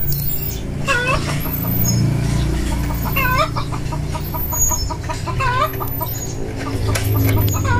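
Chickens clucking, with a sharp call repeating about every two seconds and a quick run of short clucks in the middle. A steady low hum runs underneath.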